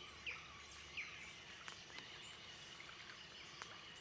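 Faint birdsong: a few short, quick chirps, mostly in the first second or so, with a few faint sharp clicks in between.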